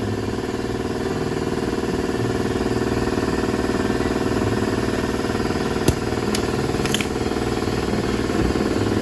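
A steady motor hum running without a break, with a few sharp clicks about six and seven seconds in.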